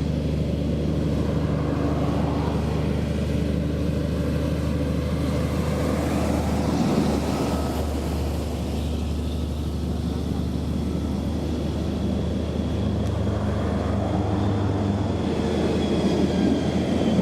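A vehicle engine idling with a steady low hum and no change in speed.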